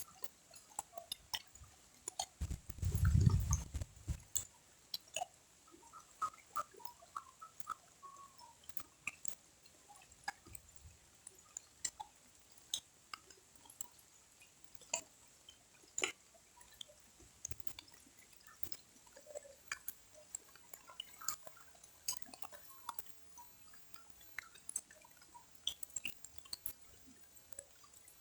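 Scattered water drips falling one at a time at an uneven pace, about as the rain is ending. A short low rumble comes about three seconds in.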